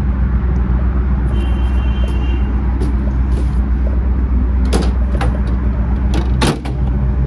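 Ford 460 V8 idling with a steady low rumble, with a few sharp knocks in the second half.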